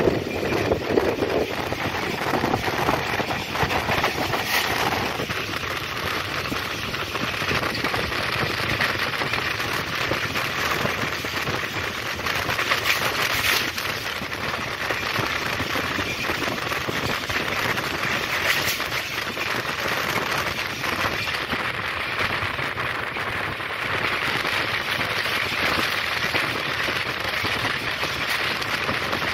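Passenger train running along the track: a steady, dense rattle and clatter of wheels and carriage.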